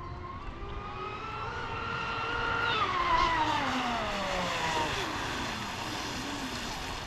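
Exocet 125 electric RC catamaran's brushless motor whining on a high-speed pass. The pitch climbs to its loudest about three seconds in, then drops sharply and slides down as the boat goes by and moves away.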